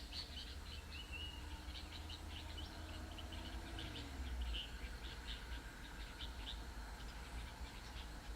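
Birds chirping in many quick, short, high notes over a low steady rumble.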